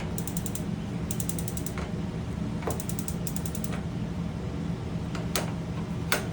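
Electronic spark igniter of an RV three-burner gas cooktop ticking rapidly in several short runs as the burner switches are turned on, with two sharper clicks near the end. A steady low hum runs underneath.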